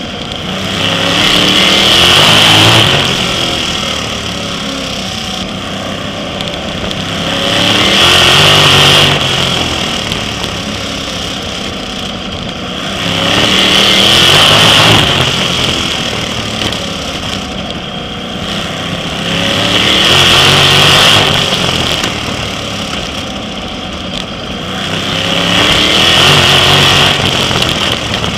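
Sprint car racing engines at full race pace, swelling loud and rising in pitch, then easing, about every six seconds as they accelerate and lift around the short oval.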